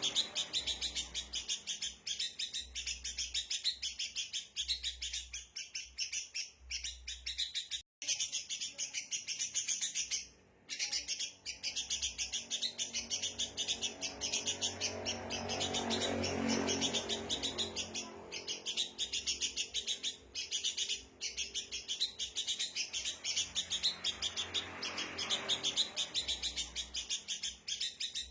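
Sooty-headed bulbuls (kutilang) giving a rapid, unbroken chatter of high chirps, the noisy agitated calling used as a lure to draw in other birds.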